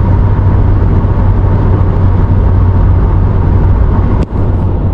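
Steady car cabin noise while driving on the highway: a constant low engine and road drone with tyre hiss, dipping briefly near the end.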